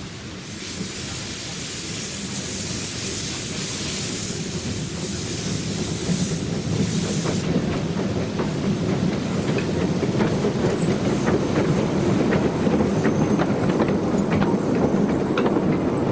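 Narrow-gauge steam train on the move. Steam hisses for the first several seconds, then the train runs louder and louder with wheels clicking over the rail joints.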